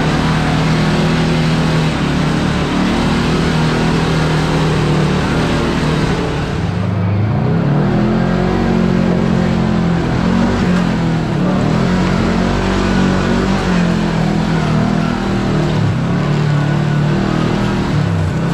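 Kawasaki KRX4 1000 side-by-side's parallel-twin engine running hard, its pitch rising and falling as the throttle is worked on and off, with a brief dip about seven seconds in.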